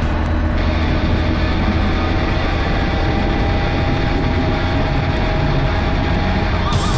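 Honda 919's inline-four engine running at a steady cruise: a constant drone with no revving or gear changes.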